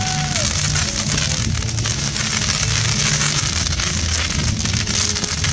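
Dense crackling and popping of a fireworks display, many crackling shells and fountains going off together. Music plays underneath.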